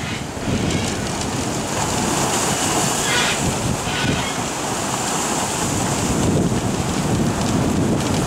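Typhoon wind buffeting the microphone over rough surf, a loud, steady rumble, as storm waves break and send spray over a breakwater. Two short hisses come about three and four seconds in.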